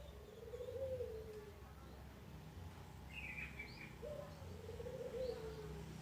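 Birds calling: two low, wavering coos, typical of a dove, one at the start and one about four seconds in, and a short higher chirp about three seconds in.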